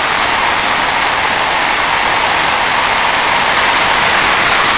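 Heavy rain and hail pouring down in a windstorm, a loud, steady hiss with no let-up.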